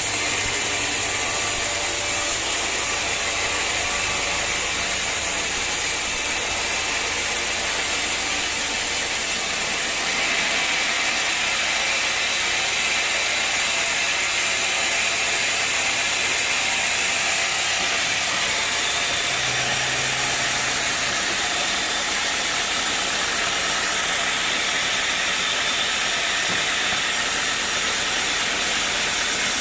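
Sawmill machinery running steadily with a loud, hissing mechanical noise, which shifts in tone about ten seconds in.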